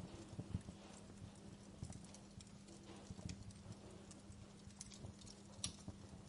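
Wood fire crackling softly: irregular small pops and snaps over low soft thumps, with one sharper pop about five and a half seconds in, over a faint steady hum.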